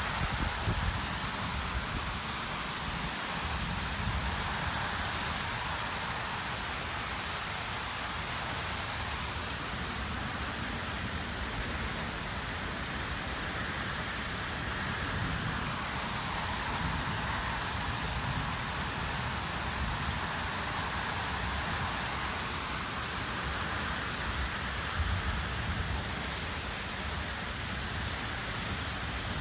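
Heavy rain pouring steadily in a severe spring thunderstorm, with an uneven low rumble from wind gusts underneath.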